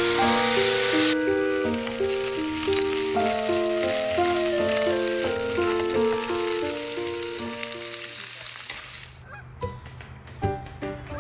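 Pork belly, beef, tofu and king oyster mushrooms sizzling on a tabletop grill plate, under background music with a simple plucked-sounding melody. About nine seconds in, the sizzling stops and the music carries on with a light beat.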